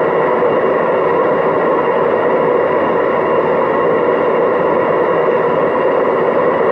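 Hoover DYNS 6105 DZ front-loading washing machine spinning steadily at its top speed of 1000 rpm, a loud, even rushing with a steady whine over it. The drum bearings are worn, according to the owner.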